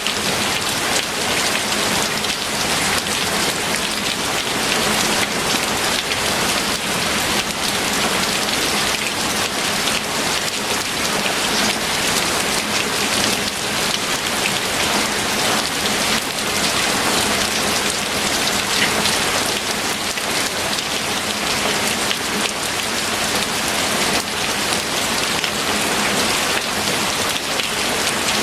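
Steady rain falling, a constant even hiss of many drops striking a surface.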